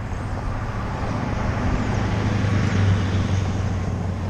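A road vehicle going by, its low hum and tyre noise building to a peak about three seconds in, then easing off.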